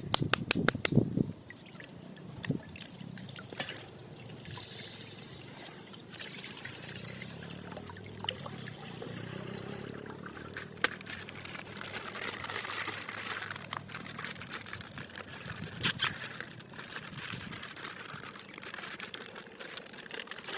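Plastic wrapping crinkling and crackling in irregular bursts as a surprise toy package is handled and unwrapped.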